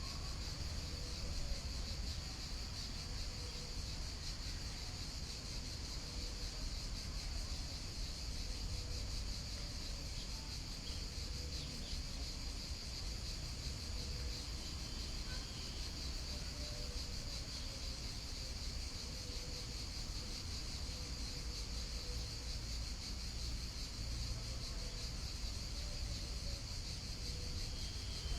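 Nature ambience with a steady, unbroken high chirring of a cricket and insect chorus over a low, even rumble of a flowing river.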